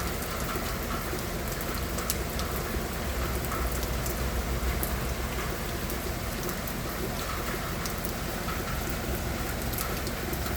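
Steady rain falling on a surface, with scattered individual drops ticking through the even hiss.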